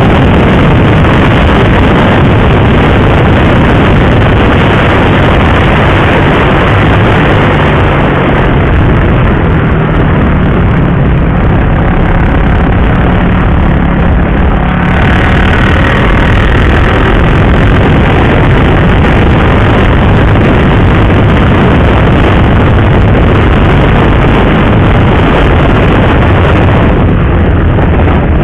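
Motorcycle engine running steadily under way, mixed with a loud, constant rush of wind noise.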